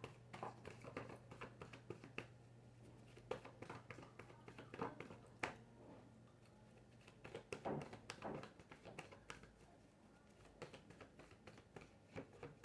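Faint, scattered taps and rustles of tarot cards being handled and drawn, a little louder in a few spots, over a low steady hum.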